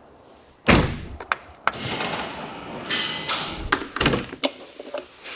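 A loud thud about a second in, followed by a run of knocks, clicks and rustling handling noises.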